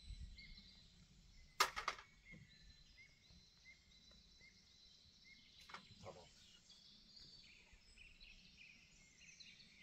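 Birds chirping in the background, a string of short repeated high notes, with a brief clatter of a few sharp knocks about a second and a half in and two lighter knocks around six seconds.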